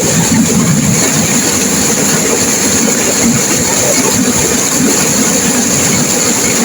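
Turbulent river water rushing and crashing, a loud steady roar without a break.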